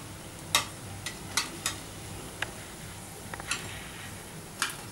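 Urad dal vadas frying in hot oil in a kadai, a steady sizzle, with several sharp clinks of a metal spoon against the pan as a fried vada is lifted out.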